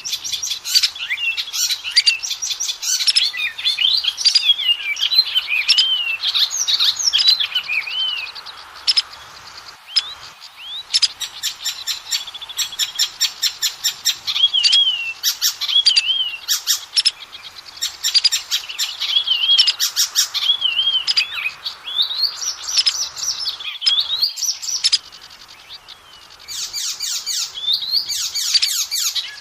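Oriental magpie-robin (kacer) singing a loud, varied song of quick rising and falling whistles broken by fast harsh rattling runs, with a couple of short pauses.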